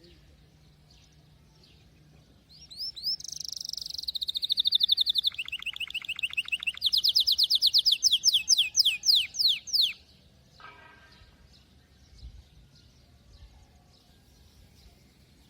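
Domestic canary singing a long phrase of rapid trills about two and a half seconds in. It moves through several rolls of fast repeated notes, each note falling in pitch, and stops abruptly about ten seconds in. Faint chirps are heard before and after the phrase.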